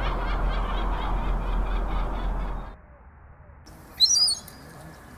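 Birds calling: a fast run of repeated calls over a low electrical hum that cuts off abruptly a little over halfway through, then a short, loud, high chirp about four seconds in.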